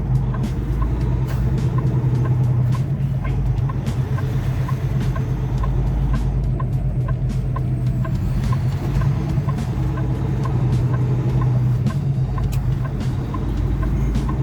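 Semi-truck diesel engine running steadily as the truck drives. A light regular ticking comes through about twice a second.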